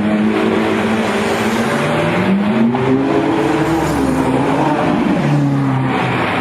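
Car engine revving hard, its pitch rising and falling repeatedly.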